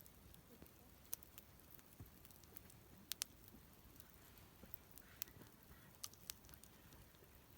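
Square-cut lumber burning in a fire pit, crackling with scattered, irregular sharp pops, the loudest a quick pair about three seconds in.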